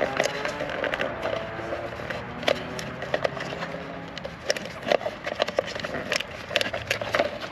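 Plastic wire loom being twisted and worked by hand around wires: a run of irregular crackling clicks.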